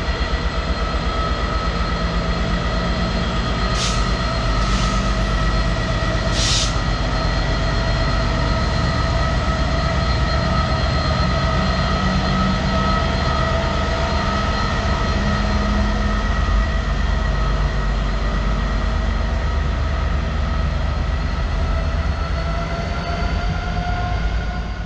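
Freight train hauled by a Class 66 diesel locomotive rolling past with its container wagons: a steady heavy rumble with a continuous high, multi-pitched whine over it. A few short sharp clicks come about four and six seconds in.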